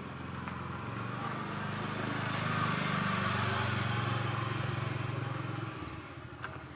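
A motor running with a steady low hum and hiss, swelling to a peak mid-way and easing off, its hum cutting out sharply near the end.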